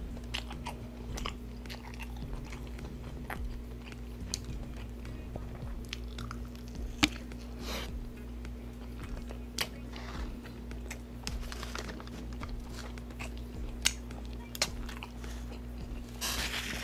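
Close-miked chewing of a McDonald's burger: wet mouth sounds and scattered sharp lip-smack and bite clicks over a steady low hum. Near the end, a short rustle of a paper wrapper.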